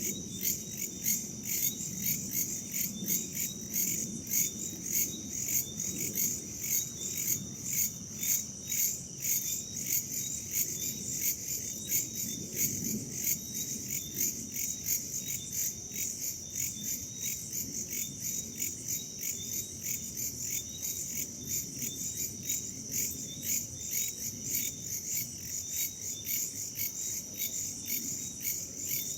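Night chorus of crickets and other insects: a steady high trill with rhythmic pulsing chirps over it, and a soft low rush of wind beneath.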